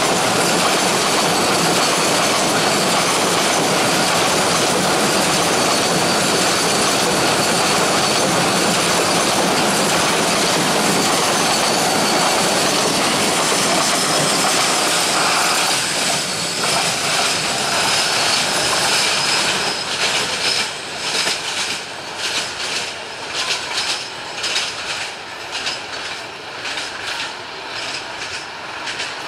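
Container wagons of a freight train rolling past close by, a loud steady rumble of wheels on rail with a thin high wheel squeal over it. About halfway through, after the brake van passes, the noise drops. It turns into an uneven clickety-clack of wheels over rail joints, fading as the train moves away.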